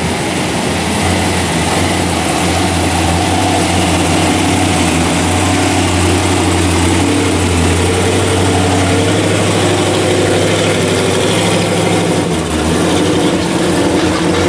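An engine idling steadily with a low hum, which shifts briefly about twelve seconds in.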